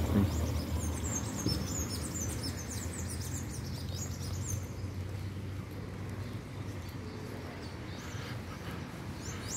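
Birds chirping in a quick series of short, high, falling calls for the first three seconds or so, fading after that, over a steady low outdoor rumble.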